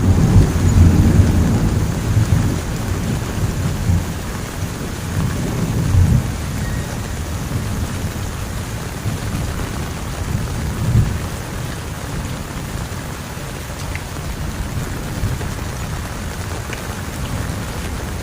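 Heavy rain falling steadily, with a roll of thunder that breaks in suddenly at the start and rumbles on, swelling again about six and eleven seconds in before dying away.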